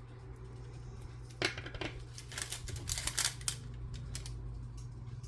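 Double-sided tape and paper being handled at a craft table: a scatter of light clicks and crackles, bunched between about a second and a half and three and a half seconds in.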